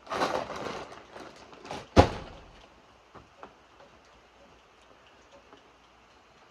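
A rustling scrape lasting about a second, then a single sharp knock about two seconds in, the loudest sound, over faint scattered dripping ticks.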